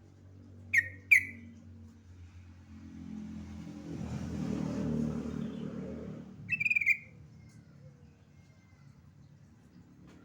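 Yellow-vented bulbul calling: two short sharp notes about a second in, then a longer burst of calls near seven seconds. Between them a low rumble swells and fades.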